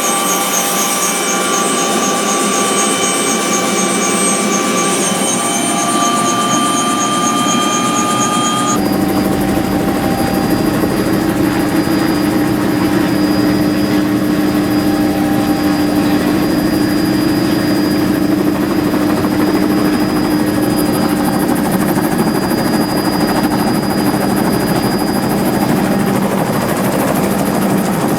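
Helicopter running for takeoff, heard from inside the doorless cabin. For the first several seconds its steady whine rises slightly in pitch. About nine seconds in the sound changes abruptly to a heavier, steady low rotor drone with rushing noise.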